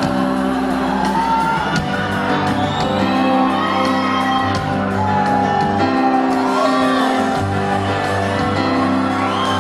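Live band music of a pop ballad with a wordless, gliding vocal line over steady accompaniment, and shouts and whoops from the audience.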